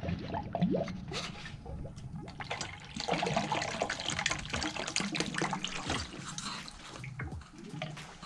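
Water being poured into a car's radiator, with irregular splashing and trickling.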